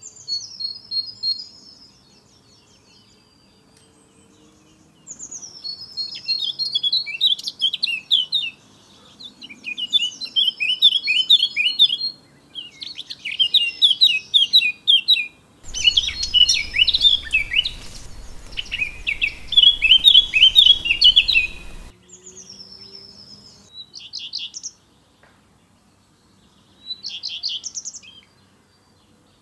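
A songbird singing, repeating short phrases of quick notes that fall in pitch, each a second or a few seconds long with brief pauses between. A steady hiss joins for several seconds in the middle.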